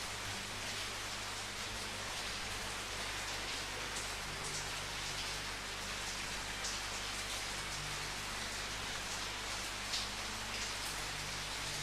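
Steady rain falling, with a few louder single drops standing out now and then.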